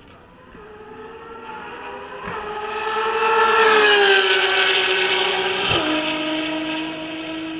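Ferrari track car passing at speed: its engine note grows louder to a peak about four seconds in and slides down in pitch as it goes by. Just under six seconds in there is a sudden drop in pitch at a gear change, then a steadier, lower note as it moves away.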